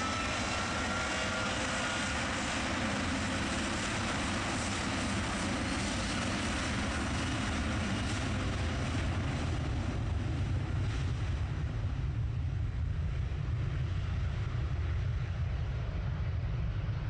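Jet airliner's engines at takeoff power on a runway departure: a roar with a thin high whine near the start. The high hiss fades after about twelve seconds, leaving a low rumble.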